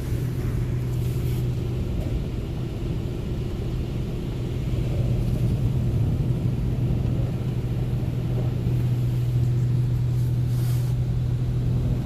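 Automatic car wash machinery working over a car, heard from inside the car's cabin as a steady low rumble with a constant hum.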